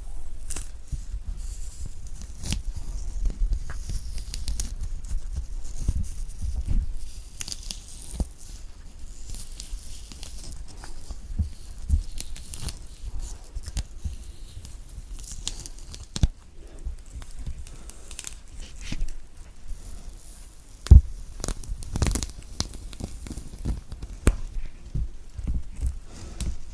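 A big, thick-skinned orange being peeled by hand close to the microphone: the peel tears and crackles in many small rips and scrapes. About 21 seconds in there is one sharp knock, the loudest sound.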